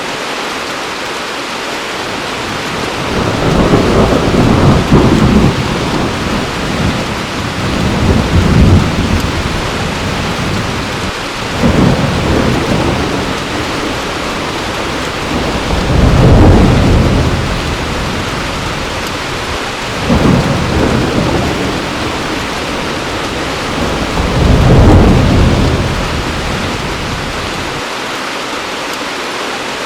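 Heavy rain falling steadily, with low rolling thunder swelling and fading again and again, about six rumbles, one every four seconds or so.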